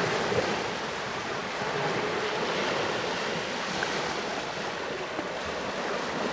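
Sea waves washing on the shore, a steady rushing wash that swells slightly early on and eases.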